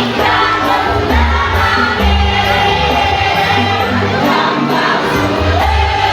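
Choir singing over amplified musical accompaniment with a heavy bass line, with crowd noise underneath.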